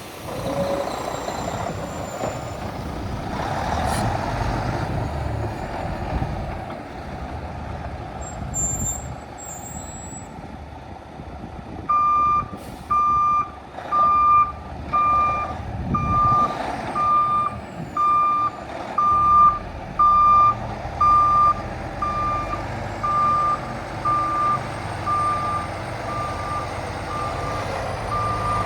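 Diesel engine of a 2022 Peterbilt 367 tri-axle tractor truck running, and from about halfway through a backup alarm beeping about once a second, the signal that the truck is reversing.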